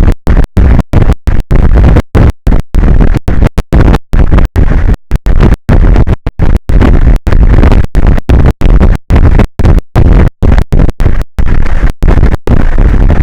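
Loud, distorted rumbling noise with no clear pitch, heaviest in the lows and chopped by dozens of brief dropouts.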